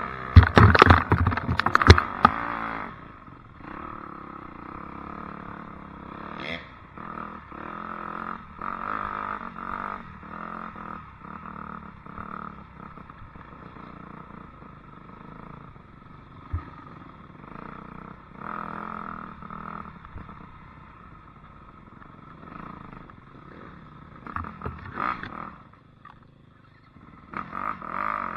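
Dirt bike engine running and changing its pitch and level as the bike rides the trail. Loud knocks and clatter come in the first couple of seconds, and a few lighter knocks follow later.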